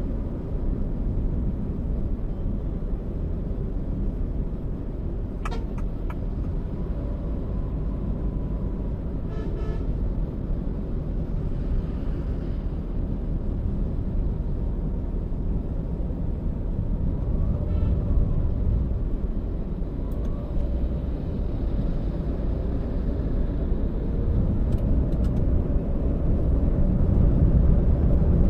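Toyota Allion car driving: steady engine and road rumble, with a few brief higher-pitched sounds along the way and the noise growing a little louder near the end.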